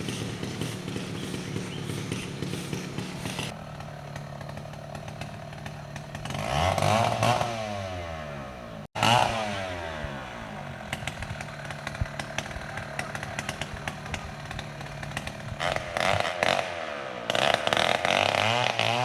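Two-stroke chainsaw running, mostly at a steady idle, revving up and back down a few times. A sudden break near the middle suggests an edit between two takes.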